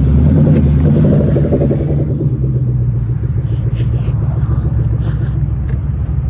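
Cammed car engine idling loud with a choppy, lopey rumble, the cam chop of an aggressive cam tune. It is a little louder for the first couple of seconds, then settles.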